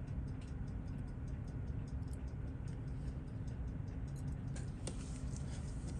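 A mechanical watch ticking quickly and evenly, about six ticks a second, over a steady low hum. A few louder clicks stand out about four and a half to five seconds in.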